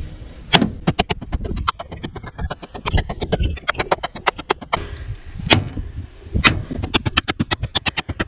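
Messerfieber Woodpecker, a small N690 steel cleaver-style knife, chopping edge-first into a VW Golf's sheet-metal roof: repeated sharp metal strikes. They come irregularly at first, then in a fast run of about five a second near the end.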